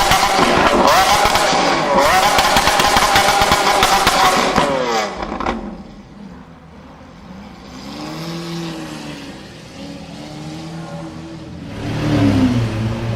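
Lamborghini Aventador V12 engine at high revs with crackling exhaust, dropping in pitch and fading about five seconds in. A quieter engine follows, its pitch rising and falling, before another engine comes in loud near the end.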